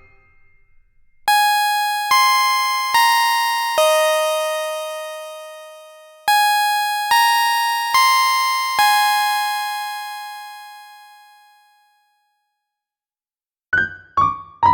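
Alarm tune played on a bell-like electric piano: two slow phrases of four chiming notes, each note ringing out and fading. After a short silence, a quick run of notes starts near the end.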